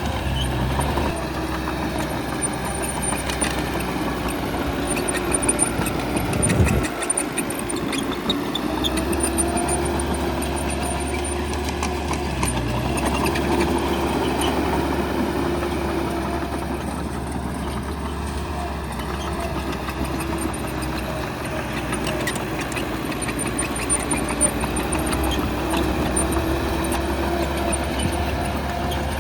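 Bulldozer's heavy diesel engine running under working load, its pitch rising and falling, with a brief louder burst about six seconds in.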